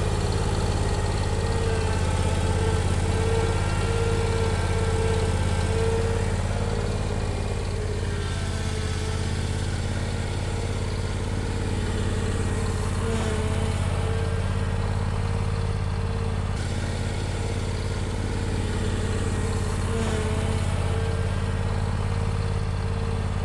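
Bad Boy Elite zero-turn lawnmower's engine running at a steady speed, a low, even hum with a faint wavering whine over it during the first several seconds.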